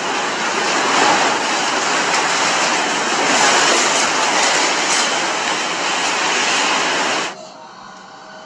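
Loud, steady rumbling and rattling, typical of a building and its contents shaking in an earthquake. It cuts off abruptly about seven seconds in, leaving a quieter hum.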